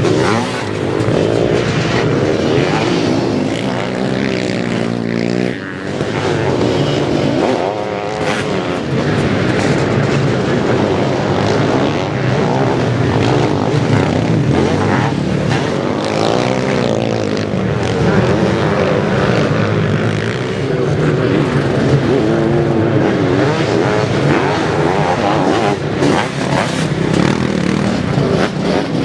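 Motocross sidecar outfits racing, their engines revving up and falling back again and again as they accelerate and shift.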